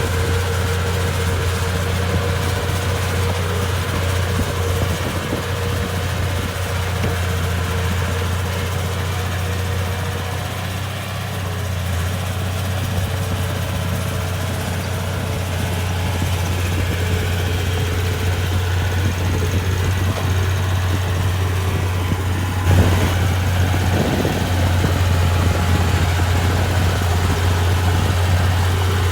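Komatsu D31P bulldozer's diesel engine running steadily with a low hum, with one sharp knock a little over three-quarters of the way through, after which it runs slightly louder.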